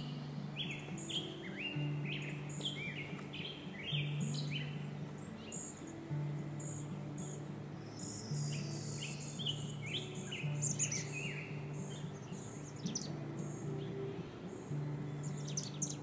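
Several small birds chirping in short, repeated calls, over soft background music with a low note that repeats about once a second.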